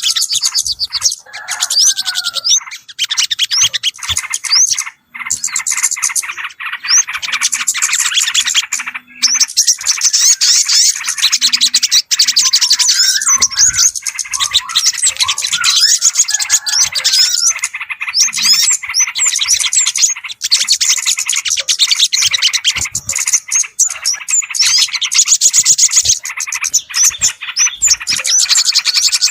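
Bird-lure recording for yellow-vented bulbuls and other small birds: a dense, continuous chatter of many small birds overlapping, with rapid high chirps and short whistled glides throughout.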